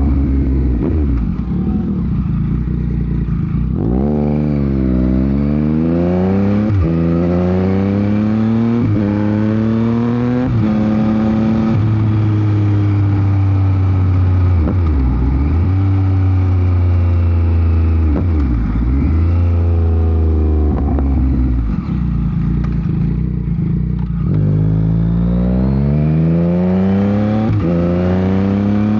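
Yamaha MT-09 SP's inline three-cylinder engine through a Dominator GP aftermarket exhaust while riding: it pulls hard through the gears, its pitch climbing and then dropping sharply at each quick-shifter upshift, holds a steady cruise through the middle, and pulls through the gears again near the end. Wind noise on the microphone underneath.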